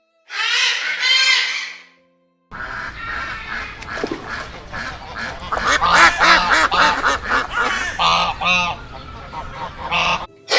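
Waterfowl calling: a short burst of calls, then, after a brief break about two seconds in, a flock calling over one another above a low background rumble, cut off near the end.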